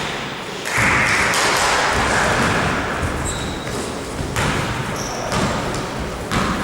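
Basketball game in a sports hall: a ball bouncing on the court, brief high sneaker squeaks, and a steady wash of hall noise from players and onlookers.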